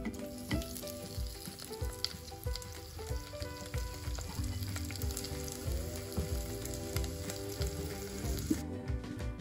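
Chopped tomatoes and their juice sizzling and crackling in hot oil in a clay pot with curry leaves and green chillies, a steady hiss scattered with small pops. The sizzle cuts off shortly before the end.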